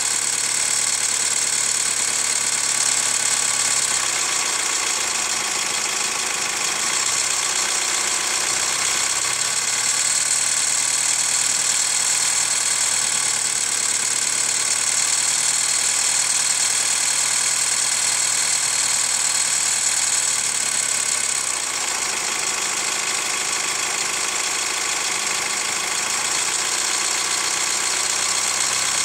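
Hyundai ix35 CRDi diesel engine idling hot, with a crunching knock, "khrum-khrum", running through it. The owner suspects the hydraulic lifters or the timing chain tensioner. The engine speed shifts slightly a few seconds in and again later.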